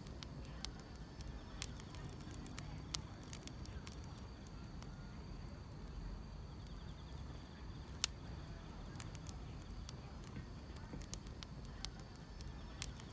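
Firewood burning with irregular sharp crackles and pops, over a steady high chirring of insects in the grass and a low rumble of the fire.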